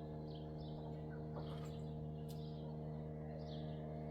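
Faint bird chirps, a few short calls scattered through, over a steady low hum.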